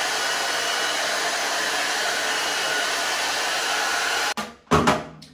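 Handheld hair dryer blowing steadily, then switched off suddenly a little over four seconds in. A couple of short knocks follow near the end.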